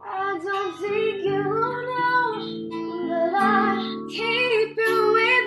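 A woman singing a slow melody with vibrato, accompanied by plucked acoustic guitar.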